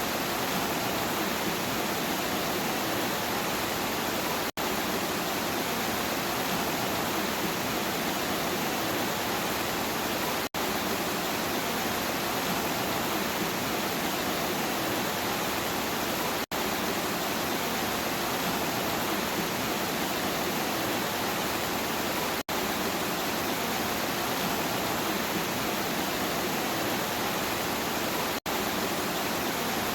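Steady heavy rain, an even rushing hiss, broken by a very brief dropout about every six seconds, as at the seams of a looped recording.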